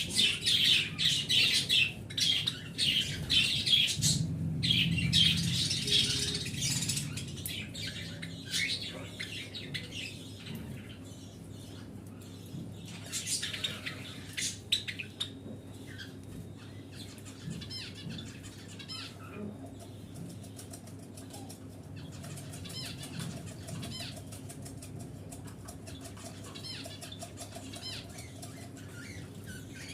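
A group of small pet birds chirping and squawking, busiest in the first several seconds and sparser after that, with wings fluttering.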